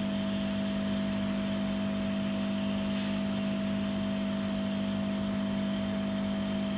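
A steady electrical hum made of several held tones, unchanging in level, with a faint short tick about three seconds in.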